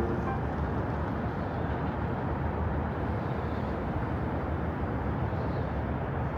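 Steady low rumble of city background noise, even throughout, with the last piano note of the music fading out at the very start.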